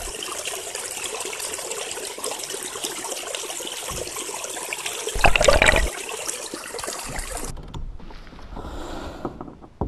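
Water sloshing and trickling around a camera held in the water as a caught snook is released, with one louder splash about five seconds in. Near the end the sound drops suddenly to a much quieter background hush.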